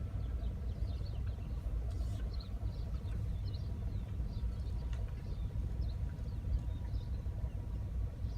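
Steady low vehicle rumble, with faint high chirps scattered throughout.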